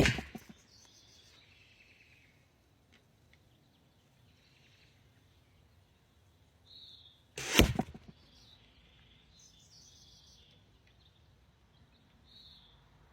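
Two shots from a bamboo-backed black walnut longbow loosing flu-flu arrows, each a sudden loud snap with a short whoosh. One comes right at the start and the other about seven and a half seconds in. Faint bird chirps sound between them.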